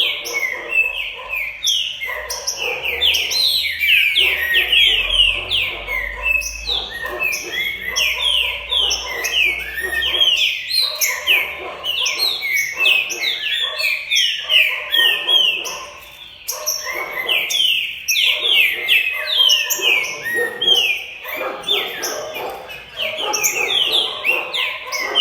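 Green-winged saltator (trinca-ferro) singing loudly and without pause, in rapid runs of short whistled notes that slide downward.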